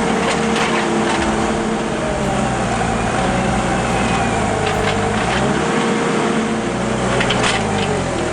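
A heavy machine's engine running hard under load, its pitch dipping and rising several times as the stuck machine works to free itself. A few short knocks sound near the end.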